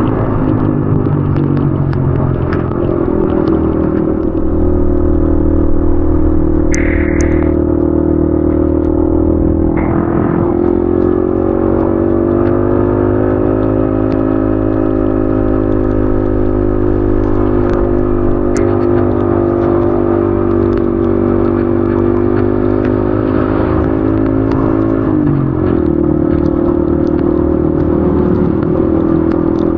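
Yamaha XSR155's 155 cc single-cylinder engine running steadily while riding. Its note drops about ten seconds in and again sharply at about 25 seconds, each time climbing back as the bike pulls on. A short high tone sounds about seven seconds in.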